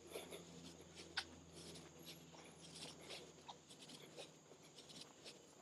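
Near silence, with faint scattered ticks and scratches.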